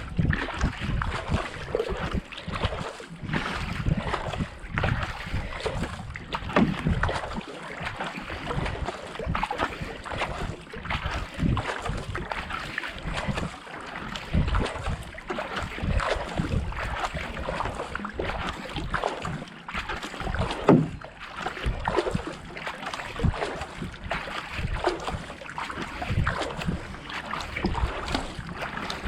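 Marathon racing kayak being paddled: blades splashing in and out of the water in a continuous run of strokes, with water rushing past the hull and wind buffeting the action camera's microphone.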